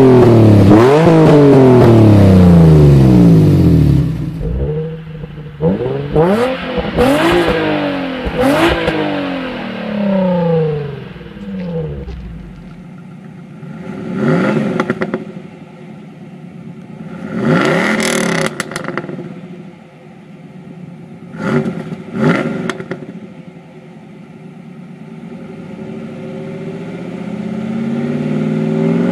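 Car engines revved through the exhaust while standing still: the pitch climbs and falls back in a string of rev blips. Softer in the second half, a steady idle is broken by three quick, sharp blips.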